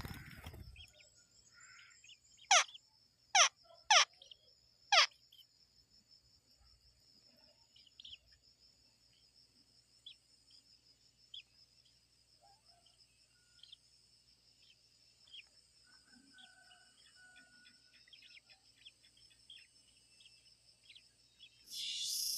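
A steady high-pitched insect trill of crickets or cicadas runs throughout, with faint scattered bird chirps. About two and a half seconds in, a bird gives four loud, sharp, downward-sliding calls in quick succession. A louder rustling noise starts just at the end.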